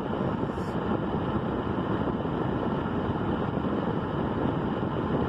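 Steady, even rumbling noise that is heaviest in the low range, with no distinct events.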